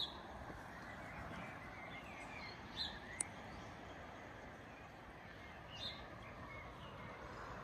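A bird calling in three short notes about three seconds apart over a steady outdoor background hiss, with one brief sharp click just after the second call.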